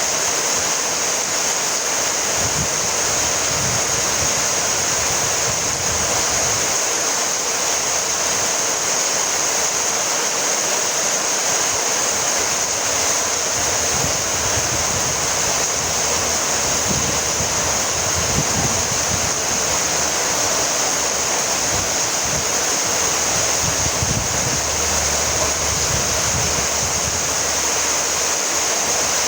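Steady rainfall, a dense even hiss of falling rain with faint low rumbles coming and going.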